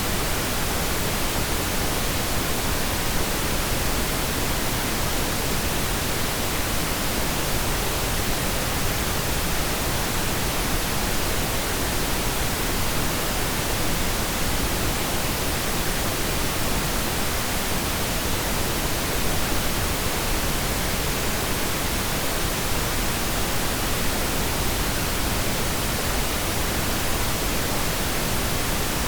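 Steady pink noise: an even, unchanging hiss spread from deep rumble to high treble.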